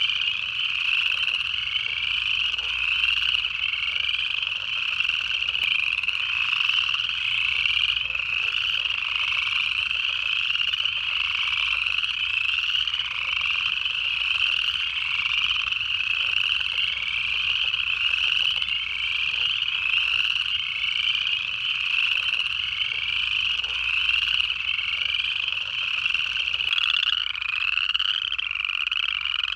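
Pond chorus of upland chorus frogs: many overlapping ascending trills, one after another without a break.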